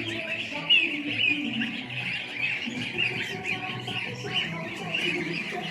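A flock of week-old goslings peeping continuously over background music.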